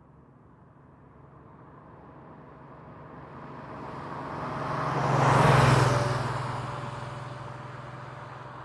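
1990 Porsche 911's air-cooled flat-six passing by at slow speed: the engine grows louder as the car approaches, is loudest about five and a half seconds in, then fades as it drives away.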